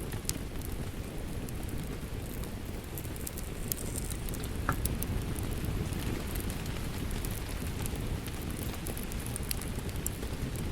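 Wood fire crackling with scattered sharp pops over a steady patter of rain.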